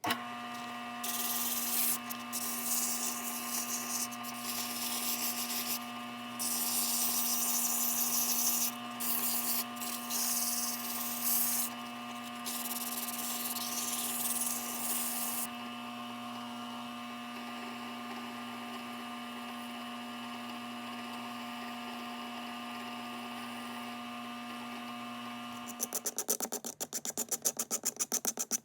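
Small electric power tool running at a steady speed while a wooden part is sanded against it. Loud gritty stretches of abrasion come and go through the first half, then the motor runs on alone, and rapid scratching strokes follow near the end.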